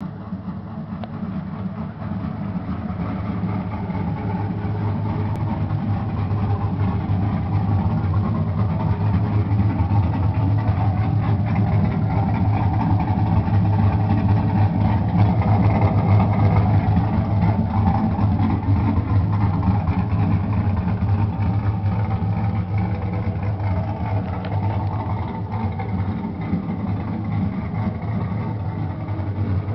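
Chevrolet Camaro SS's LS1 V8, fitted with 243 heads and a TR230 camshaft, idling steadily with a low exhaust rumble. It grows louder toward the middle and eases off slightly near the end.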